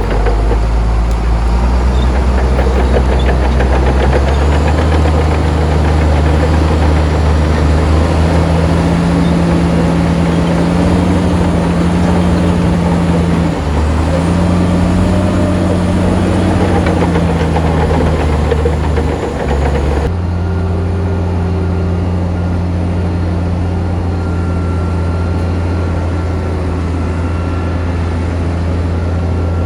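Heavy construction machine's diesel engine running loud, its pitch rising a few seconds in and dipping briefly twice. About two-thirds of the way through the sound changes abruptly to a steadier, duller engine note.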